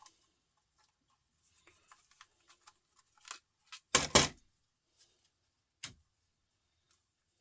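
Small clicks and clatters of laptop parts and tools being handled, with two louder sharp knocks about four seconds in and another near six seconds.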